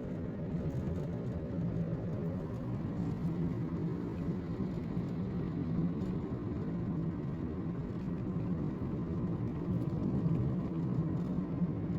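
Car on the move: a steady low rumble of road and engine noise, with no sudden changes.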